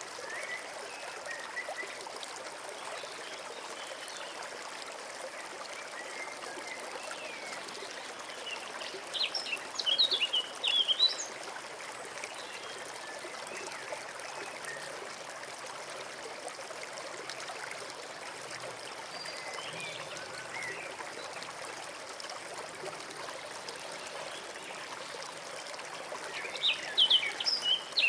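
A small forest stream trickling steadily. A songbird sings two short bursts of quick, high notes over it, one about ten seconds in and one near the end, with a few faint chirps in between.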